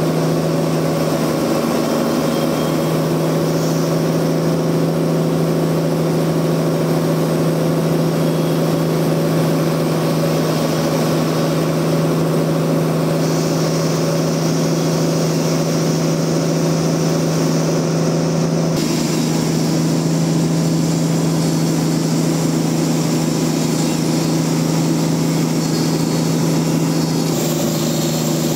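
Sawmill machinery running with a steady, loud engine-like drone. The sound shifts abruptly about two-thirds of the way through and again near the end.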